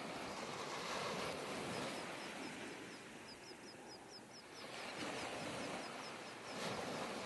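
Outdoor ambient noise with a repeated high-pitched chirping, about four chirps a second, starting a couple of seconds in.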